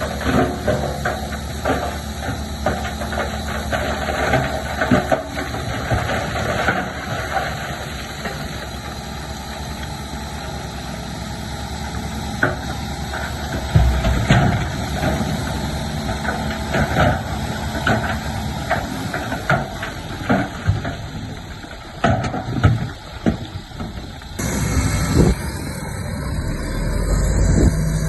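Shantui bulldozer's diesel engine running under work, with frequent clanks and knocks from the machine and the stone it moves. The sound changes abruptly about 24 seconds in, and a deeper rumble builds near the end.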